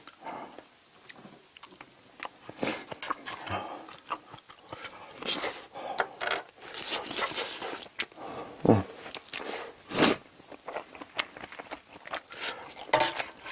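Close-up chewing and mouth sounds of someone eating spicy stir-fried octopus with rice: irregular wet smacks and soft clicks, with two sharper clicks near the end.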